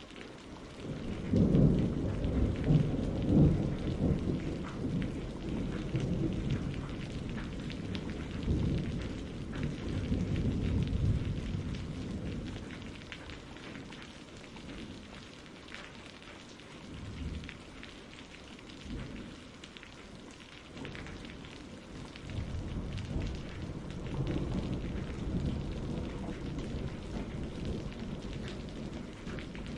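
Steady rain with rolling thunder. A loud rumble comes about a second and a half in, another rolls through around eight to eleven seconds, and a longer one builds in the last third.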